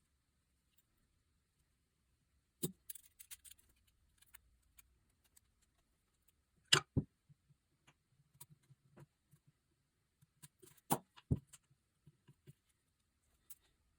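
Metal engine parts and hand tools being handled on a workbench during a small diesel engine rebuild: a few sharp clinks and knocks, two close together about seven seconds in and two more about eleven seconds in, with light taps and rattles between.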